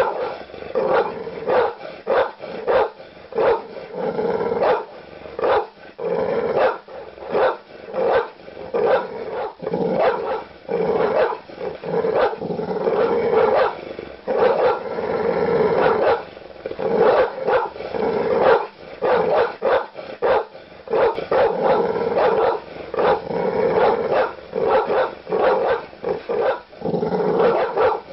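Large dogs barking aggressively: deep barks come in quick succession, several a second, with hardly a gap.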